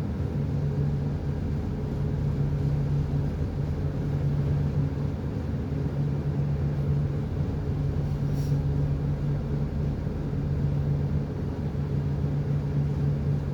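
Ship's engine droning steadily with a constant low hum, heard on board while the vessel is being manoeuvred.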